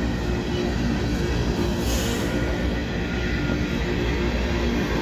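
Freight train cars rolling past with a steady low rumble and faint ringing tones from the wheels, and a brief hiss about two seconds in.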